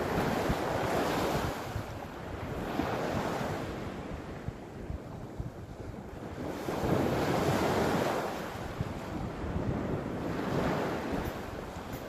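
Sea waves washing onto the shore, swelling and falling away every few seconds, with wind buffeting the microphone.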